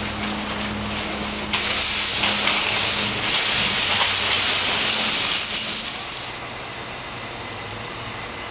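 Loud hiss of rain and wet-road spray heard from a moving car. It swells suddenly about a second and a half in and eases off after about five seconds into a softer steady hiss.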